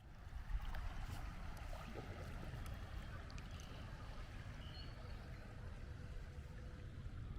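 Water lapping and splashing around a kayak on floodwater, over a steady low rumble of wind on the microphone, with a few faint clicks and short high chirps.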